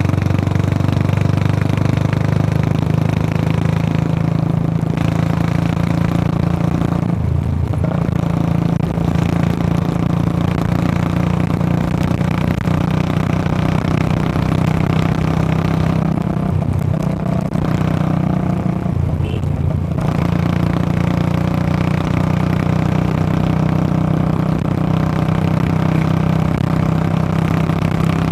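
2014 Royal Enfield Classic 350's single-cylinder engine running through a short bottle Punjab silencer, a steady loud exhaust note from a ridden motorcycle. The note dips and changes briefly twice, about seven seconds in and again around seventeen to nineteen seconds, as throttle or gear changes.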